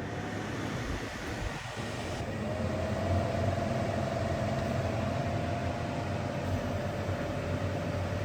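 EBERG TEXO 3.5 kW portable air conditioner starting up and running loud: fan noise builds over the first few seconds, then a steady whine and low hum join about two and a half seconds in and hold.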